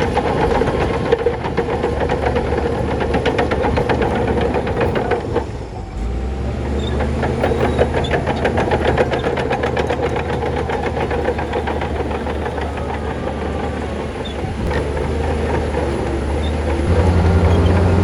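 Heavy diesel earthmoving machinery running under load with a rapid metallic clatter. The engine note shifts about six seconds in, then rises and grows louder near the end.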